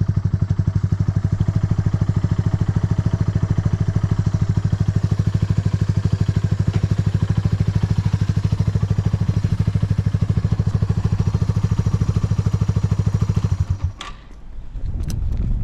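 Yamaha TW200's air-cooled single-cylinder four-stroke engine running with an even beat, which the seller describes as free of abnormal noise. It cuts off suddenly near the end, followed by a few knocks.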